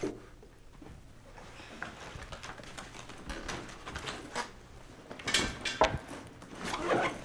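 Classroom furniture and movement sounds as a student walks back to his desk and sits down: soft footsteps and rustling, then a few sharp knocks and scrapes of chair and desk about five seconds in and again near the end.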